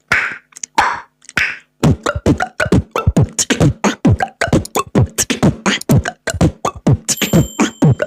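Beatboxer imitating a table-tennis rally with the mouth: a few breathy hisses, then a long run of quick, hollow tok-tok clicks, about four or five a second.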